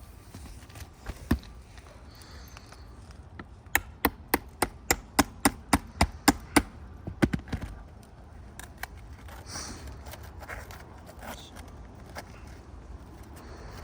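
A hammer striking rapidly: about fourteen sharp blows at roughly four a second for under four seconds, after a single knock about a second in, with a few softer knocks afterwards.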